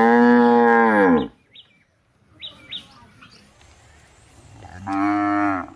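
Cow mooing: one long moo that rises and then falls in pitch, ending about a second in, and a second, shorter moo near the end. Faint bird chirps come between the two.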